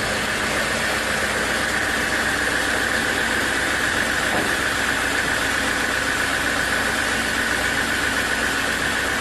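Sawmill machinery running steadily, a constant mechanical noise with a steady whine over it.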